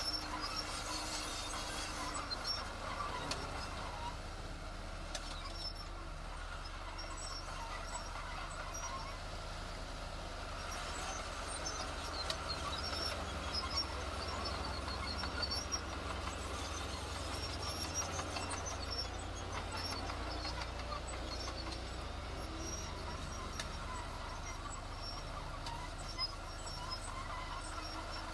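Heavy diesel construction machinery running steadily with a constant low engine rumble, with scattered short sharp clicks and clanks over it.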